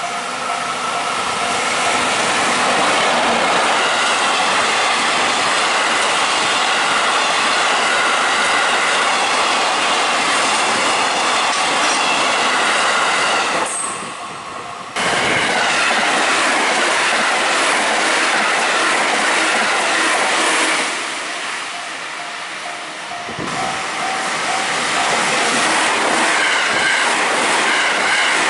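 Electric trains running past over a level crossing: a loud, steady clatter of wheels on the rails, with the crossing's warning bell ringing over it. The noise dips briefly about halfway and again about three quarters through, then a JR Central electric train rushes past close by near the end.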